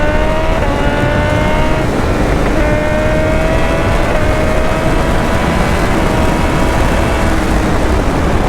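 BMW S1000R's inline-four engine pulling hard under acceleration, its note climbing slowly in pitch with a few brief dips and breaks, over heavy wind rush on the helmet microphone.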